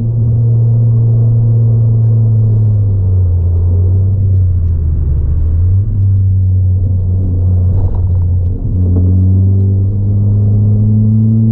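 Ford Fiesta ST180's 1.6-litre turbocharged four-cylinder engine with a 3-inch aftermarket exhaust, heard loud from inside the cabin while lapping a track. The engine note holds steady, drops lower about three seconds in, dips briefly about eight and a half seconds in, then rises steadily in pitch as the car accelerates near the end.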